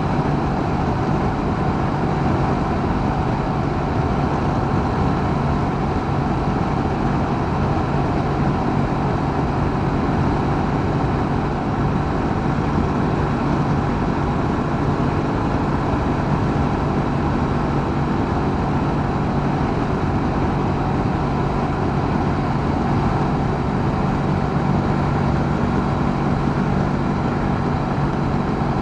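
Honda CB500X's 471 cc parallel-twin engine running at a steady cruise, with rushing wind noise, as heard by the rider.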